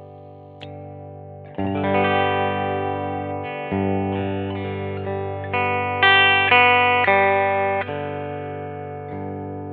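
1982 Vantage VE-550 electric guitar played: a note rings, a chord is struck about a second and a half in, then a string of single notes and chords is picked in quick succession and left to ring out near the end.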